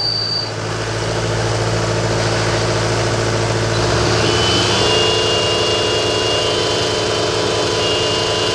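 Tractor diesel engine running steadily at high revs, with a thin high whine joining about four seconds in.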